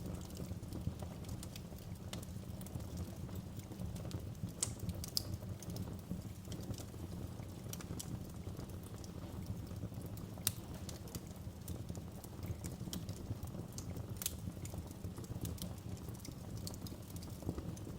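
Wood fire burning in a fireplace: a steady low rumble of flames with scattered sharp crackles and pops, the loudest a little after ten seconds in and again at about fourteen seconds.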